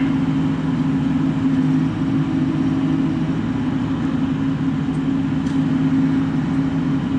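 Bobcat E42 mini excavator's diesel engine running steadily, heard from inside the cab.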